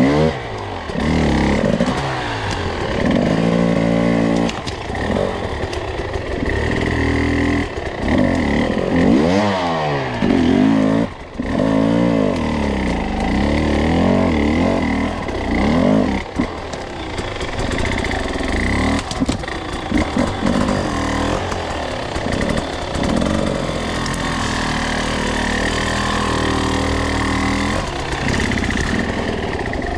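Two-stroke enduro dirt bike engine being ridden, the throttle opened and closed over and over so its pitch keeps rising and falling, with a brief drop-off about eleven seconds in. It settles to steadier, lower-revving running near the end.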